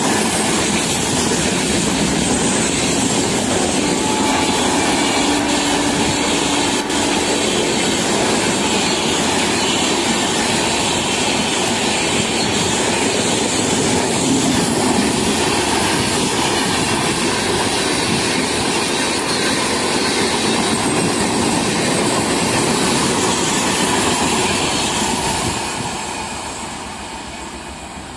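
Passenger coaches of an Indian Railways express running past at speed, a steady loud rush and rattle of wheels on the rails that dies away over the last few seconds as the end of the train pulls off into the distance.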